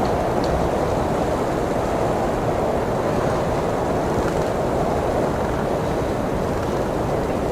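Strong blizzard wind blowing steadily, a deep rushing roar that swells a little in the middle and eases again.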